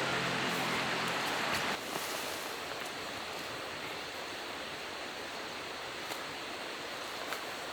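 Music ends sharply about two seconds in, then steady outdoor background hiss with a few faint ticks.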